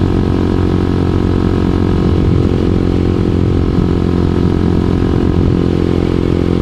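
2012 Honda CBR250R's single-cylinder engine running at a steady cruising speed, its pitch holding level.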